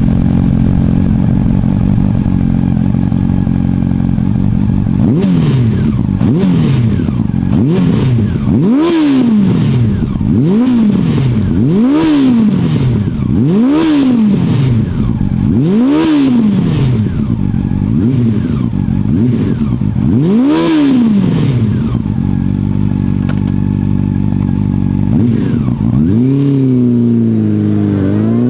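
Honda CB400 Super Four's inline-four engine running through an R's Gear Wyvern Classic titanium slip-on muffler: idling steadily for a few seconds, then revved in a string of quick throttle blips, each rising and falling back, about every one to two seconds. It settles back to idle, then starts a longer, rising rev near the end.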